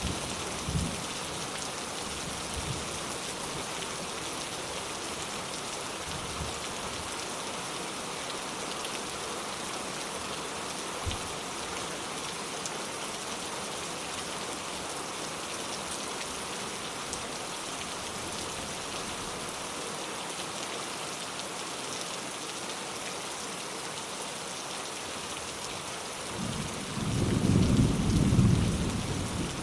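Steady rain falling, with a few soft low thumps in the first ten seconds. A roll of thunder builds near the end and is the loudest thing heard.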